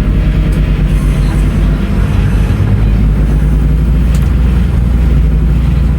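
Diesel engine of a Scania N310UA articulated city bus running at a steady, even pitch, with a few short clicks or rattles about half a second, a second and a half, and four seconds in.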